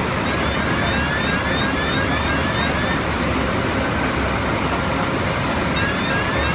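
Steady road-vehicle noise, a constant engine and traffic rumble, with a series of short rising chirps repeating several times a second high above it.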